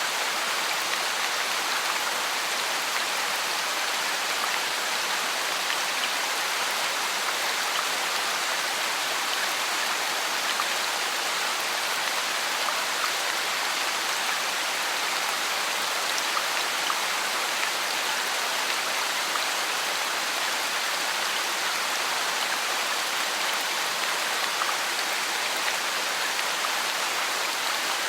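Steady rain falling, an even hiss with many small drop ticks scattered through it and no change in strength.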